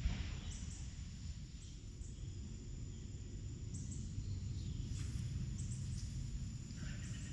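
Outdoor backyard ambience: a steady low rumble with a few faint, short bird chirps.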